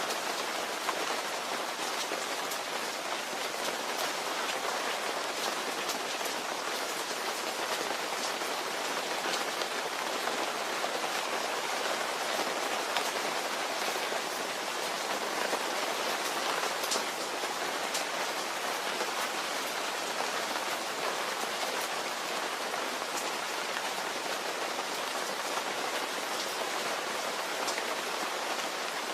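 Steady rain falling, an even hiss of many drops with fine individual patters on a surface.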